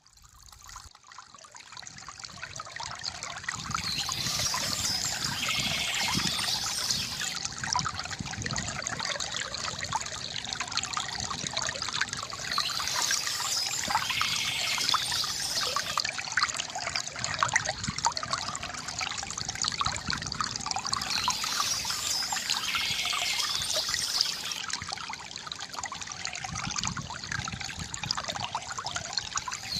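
River water gurgling and trickling, fading in from near silence over the first few seconds, with soft bird chirping coming and going at intervals above it.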